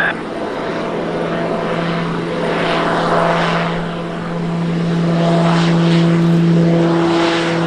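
Piaggio P-180 Avanti's twin pusher turboprops: a steady propeller drone over a rushing noise, growing louder in the last few seconds.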